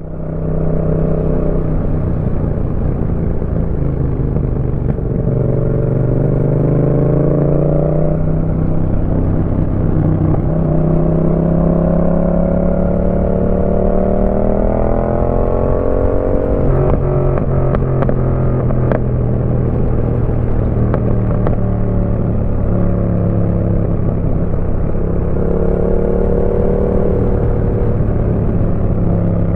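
A Yamaha MT-07's 689 cc parallel-twin engine, breathing through a Roadsitalia aftermarket exhaust, pulls under load while the bike is ridden. The revs climb three times, the longest climb lasting about six seconds, and drop back in between. A few sharp exhaust pops come around the middle, just after the revs fall.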